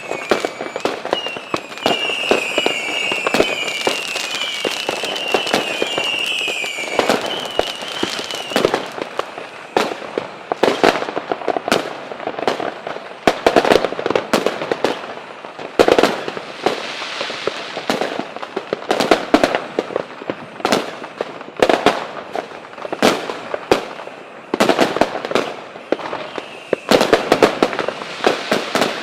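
Fireworks display: a dense run of bangs and crackling bursts, some following close on one another. A high warbling whistle repeats over the first seven seconds or so.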